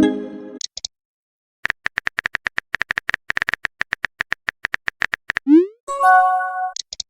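Synthetic phone-keyboard typing clicks, rapid and evenly spaced, for about four seconds. They are followed near the end by a short rising pop and a brief electronic chime, the sent and received message sounds of a chat app.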